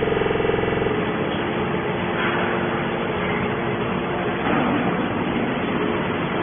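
Hydraulic baler machinery running: a steady mechanical rumble with a few held tones, which opens with a pitched hum that drops away about a second in.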